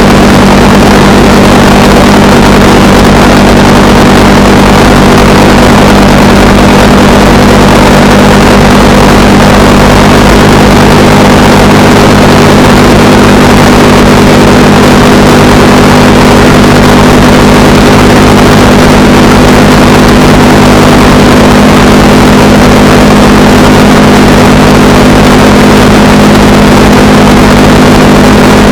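Honda Rebel 300's single-cylinder engine running steadily at cruising speed while riding, with a constant rush of wind noise over it.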